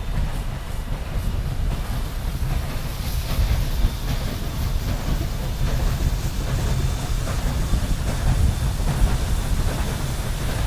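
A train running by on the rails: a steady, heavy low rumble with rail and wheel noise.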